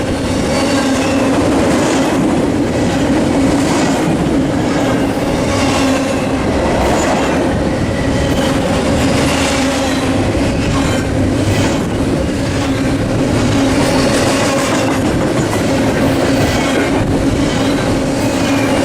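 Long double-stack container freight train rolling steadily past at close range: a continuous roar of wheels on rail with a steady hum and irregular clicking as the cars pass over the rail joints.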